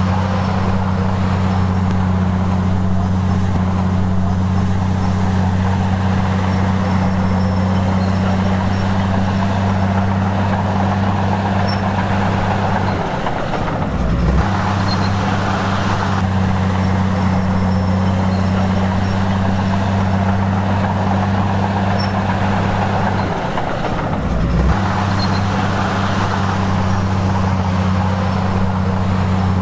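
Heavy construction-machine diesel engine running steadily. Its drone dips briefly twice, about halfway through and again near the end, with a low thump each time, then settles back to the same steady note.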